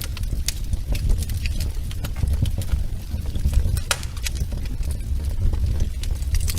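Wood fire burning in a fireplace: a low steady rumble of the flames with frequent sharp crackles and pops, one louder pop about four seconds in.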